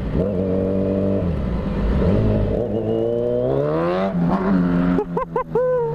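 Motorcycle engine revving hard as it accelerates, its pitch climbing for over a second before dropping at a gear change about four seconds in, followed by several short quick blips of the throttle near the end. The bike is still in its break-in period.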